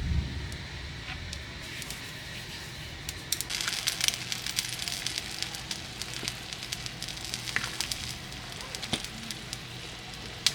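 Food frying in a hot pan, sizzling with irregular pops and crackles that pick up a few seconds in. A low thump sounds at the very start.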